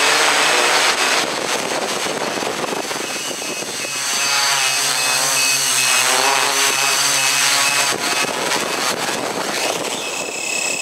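A steady mechanical drone with a pitched hum that wavers in pitch for a few seconds in the middle, over a faint, evenly repeating high tone.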